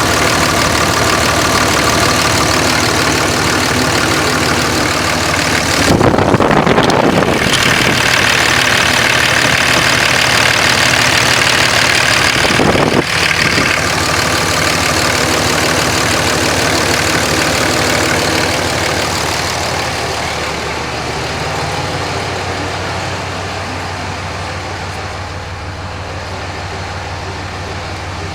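5.9 Cummins inline-six turbo diesel running: idling, then revved up about six seconds in and held at higher speed until about thirteen seconds, when it drops back to idle.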